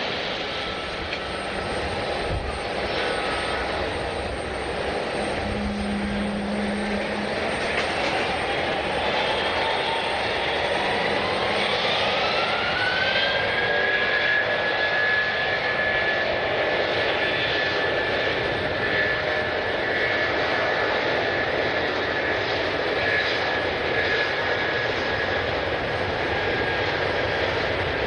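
Jet airliner's engines running, with a whine that rises in pitch for about five seconds from some eight seconds in, then holds steady over the engine noise.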